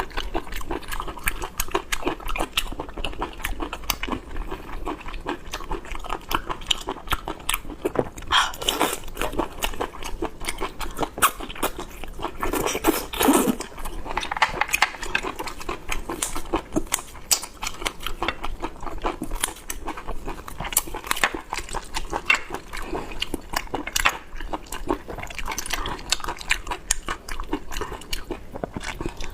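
Close-miked eating sounds of someone chewing and biting boiled squid: a steady, irregular run of wet smacks and crisp clicks, with a few louder bites scattered through.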